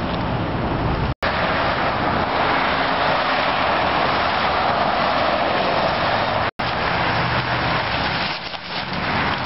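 Car driving: steady road and tyre noise over a low engine hum. The sound cuts off abruptly and restarts twice.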